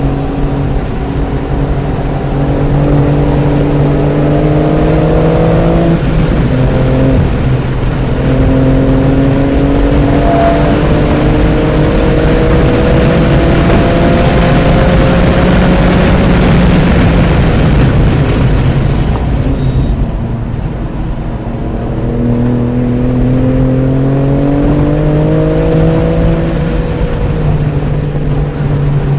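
BMW F80 M3 Competition's twin-turbo straight-six pulling hard on track, its note climbing slowly through the revs. It drops with a gear change about six seconds in, pulls again, and falls away around twenty seconds in under heavy wind and tyre noise. It then builds once more and eases off near the end.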